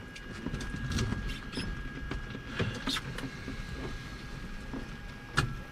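Scattered clicks, knocks and rustling of cockpit handling in a small aircraft before engine start, with a faint steady high tone underneath.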